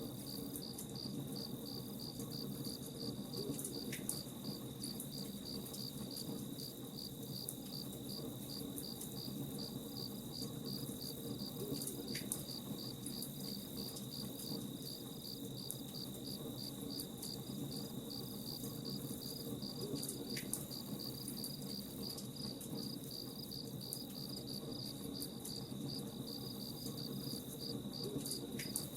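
Crickets chirping in a steady stream of rapid, even pulses, with faint scattered crackles from a campfire underneath.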